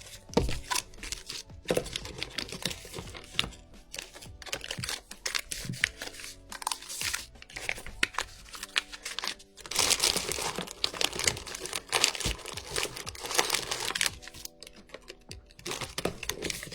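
Packets of cat snacks and food pouches crinkling and rustling in irregular bursts as they are handled and packed away, over background music.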